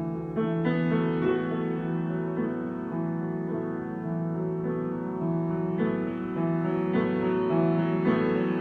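Solo piano improvisation: sustained notes and chords that change every second or so, getting a little louder about half a second in.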